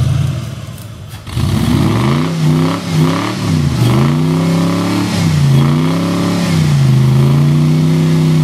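Off-road truck engine revving up and down several times, then held at a steady higher speed near the end.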